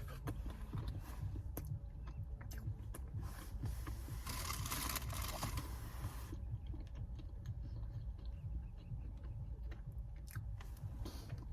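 A person chewing food close to the microphone, with small wet clicks and crunches, over a steady low rumble. About four seconds in there is a hissing rustle lasting about two seconds.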